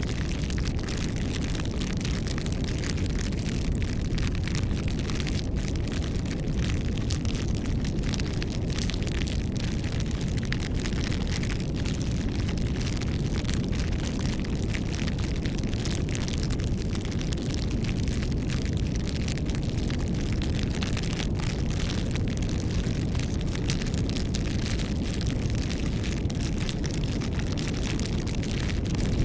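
Bonfire burning: a steady low rush of flames with frequent small crackles and pops of burning wood.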